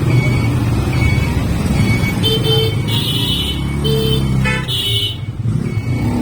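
Motorcycle ride on the road: steady engine and road rumble, with several short vehicle horn honks between about two and five seconds in.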